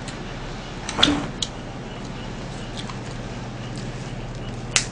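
A few sharp wet mouth clicks and smacks from someone chewing a mouthful of food, over a steady low hum.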